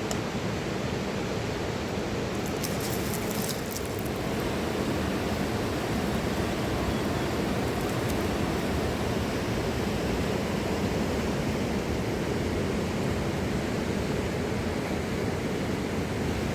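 Steady rushing of a mountain river, with a few faint clicks about three seconds in.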